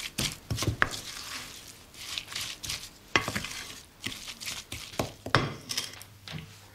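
A spoon stirring and beating grated carrot, margarine and sugar in a glazed earthenware mixing bowl: a wet, irregular scraping with sharp knocks of the spoon against the bowl a few times.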